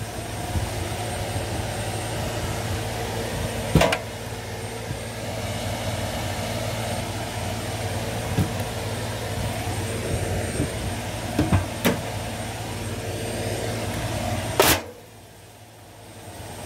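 Washing machine running with a steady mechanical hum, broken by sharp bangs about four seconds in, twice in quick succession around twelve seconds, and loudly near the end, after which the running noise drops away sharply.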